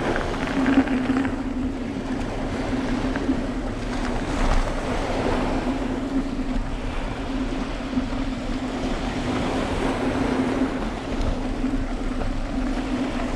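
A steady low hum, like a motor running, over a constant rush of wind and surf-like noise.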